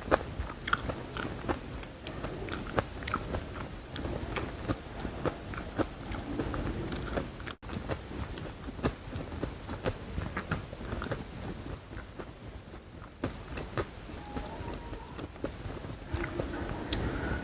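Close-miked eating: crunchy bites and chewing, with many irregular sharp crunches throughout and a momentary break about halfway through.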